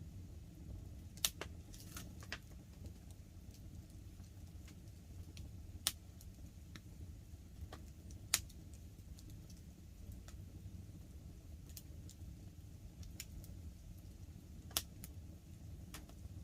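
Wood campfire crackling, with sharp pops every few seconds over a steady low rumble.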